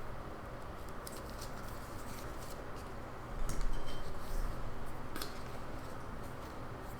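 Scattered clicks of a computer mouse and keyboard, with a brief flurry a little past the middle, over a steady hiss of white noise.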